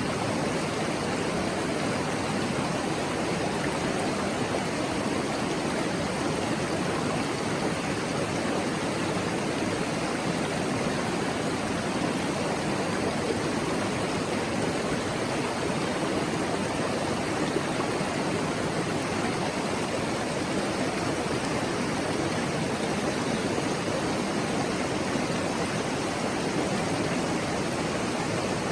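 Shallow mountain stream running, a steady babbling murmur of water that does not change.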